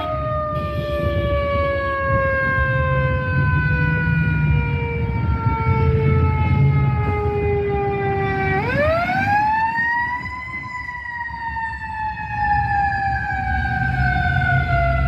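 Fire truck siren winding slowly down in pitch, then sweeping quickly back up about nine seconds in and slowly falling again, over the low rumble of the truck and traffic.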